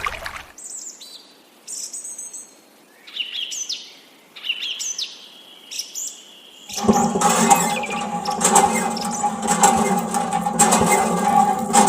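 Small birds chirping, short high calls and glides, for the first half or so. About seven seconds in, a steady humming machine with rushing water starts up loudly and runs on.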